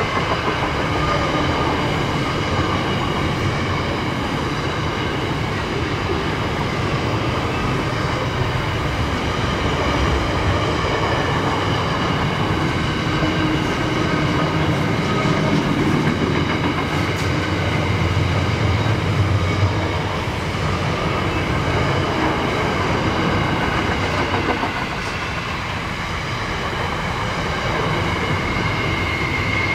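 A train's cars rolling steadily past, wheels clattering over the rails, with a thin high ringing from wheel on rail over it.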